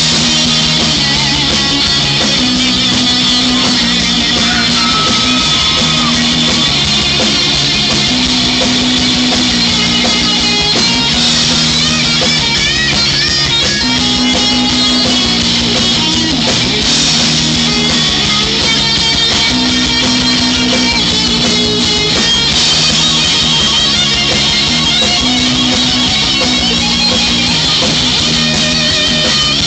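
Live rock band playing an instrumental passage: electric guitar over bass and drums, with a low riff that repeats every few seconds and higher guitar lines bending in pitch above it.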